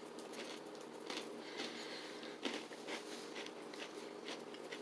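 Faint chewing of a dry, crunchy granola cookie cup with almond butter: a few soft, scattered crunches over a steady low hum.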